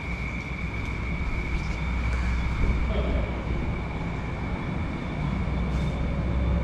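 Motorcycle riding along the road: a steady low engine and wind rumble with a steady high whine.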